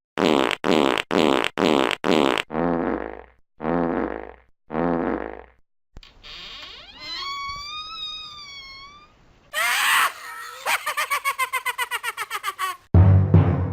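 A string of short comic sound effects: five quick bursts, then three lower blasts that bend in pitch, then a wavering whistle-like tone, and finally a noisy burst followed by a fast rattle of about eight pulses a second.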